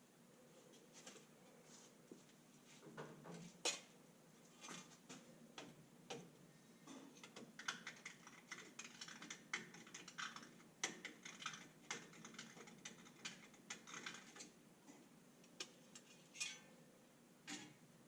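Faint, irregular light clicks and taps of small hard objects being handled, sparse at first and busiest in the middle stretch.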